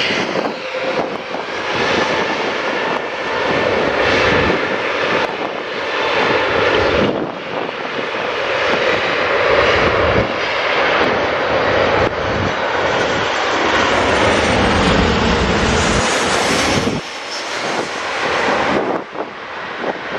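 Airbus A380's four jet engines at takeoff thrust as the airliner lifts off and climbs out: loud, steady jet noise with a faint whine, easing off somewhat near the end.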